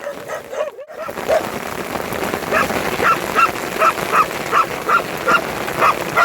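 A dog barking repeatedly in a quick, even run of about two to three short barks a second, starting a couple of seconds in, over the steady hiss of heavy rain.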